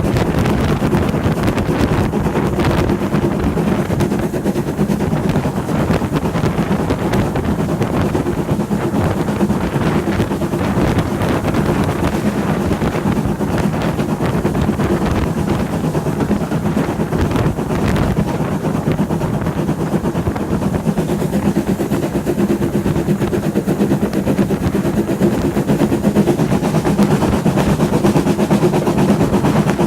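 A train running along the line: a steady rumble with a dense patter of rapid beats, growing slightly louder near the end.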